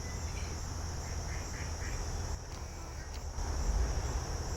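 Ducks quacking: a short run of about four quacks in the first two seconds, over a steady high insect trill.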